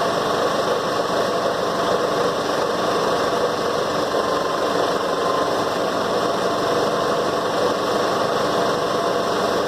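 Vehicle engine running steadily, an even unbroken drone.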